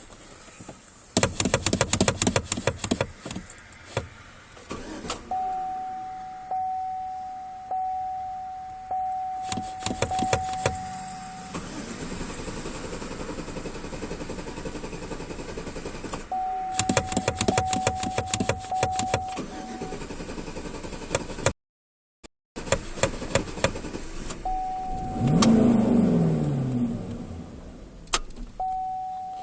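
Car engine cranked on the starter in several separate attempts without starting, while a dashboard warning chime repeats steadily between and under the tries.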